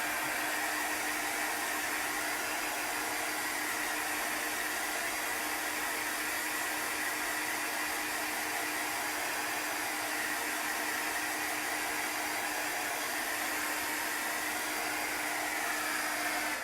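Handheld electric dryer (craft heat tool or hair dryer) blowing steadily with a constant hum, drying freshly applied colour on a craft tag. It switches off abruptly at the very end.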